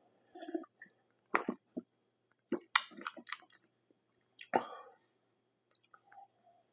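Close-miked chewing and mouth sounds: a handful of short, irregular smacks and crunches with quiet gaps between them.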